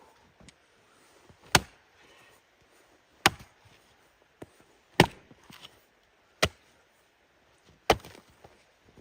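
Wood being chopped: five sharp strikes about one and a half seconds apart, each followed by a few small knocks.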